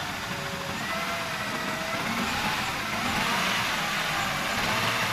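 Car engine running and accelerating gently, its pitch rising and wandering, with the level growing slightly about three seconds in. The car is being test-driven after a makeshift fix to a broken connector on the coolant reservoir hose that had been leaking coolant.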